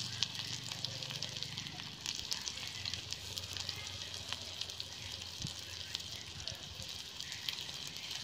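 Hot oil sizzling steadily with many small crackles and pops as masala-coated raw banana slices shallow-fry on a black iron tawa over a wood fire.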